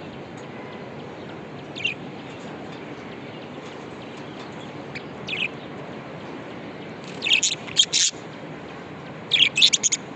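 Pet budgerigars chirping in short high calls: a single chirp or two early on, then two quick clusters of louder chirps near the end, over a steady background hiss.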